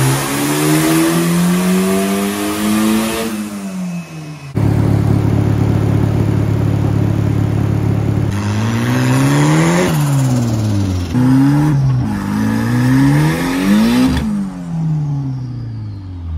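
Engine of a Toyota 86 with a Honda K24 swap revving hard: a long rising pull that falls away about four seconds in, then a steady hold, then several quick rises and sharp drops in revs.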